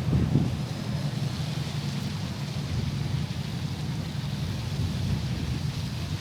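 City street ambience: a steady low rumble, with passers-by voices fading out in the first half second.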